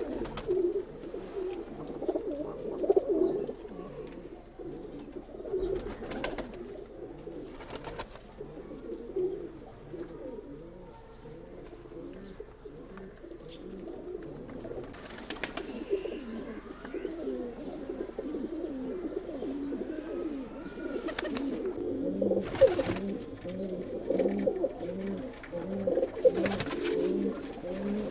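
Several domestic pigeons cooing at once, their low calls overlapping continuously, with a few short sharp knocks or flaps.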